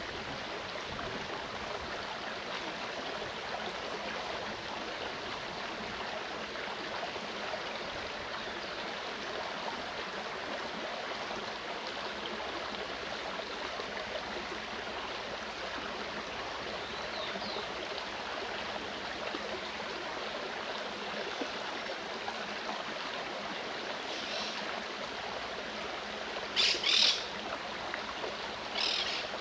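Mountain stream flowing steadily over rocks. Near the end a forest bird gives a few short, sharp calls, louder than the water.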